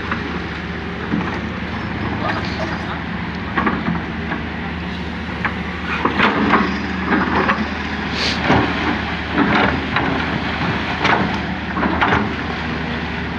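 Excavator's diesel engine running steadily while its bucket scrapes and knocks against a layer of cadas rock, with repeated scrapes about once a second. The dig has hit rock and cannot be deepened any further.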